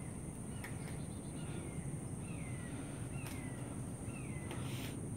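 A bird repeats a short down-slurred call about five times, under a second apart, over a low background rumble and a steady high-pitched whine.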